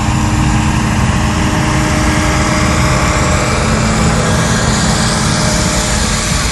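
Pulling truck's engine running loud and steady.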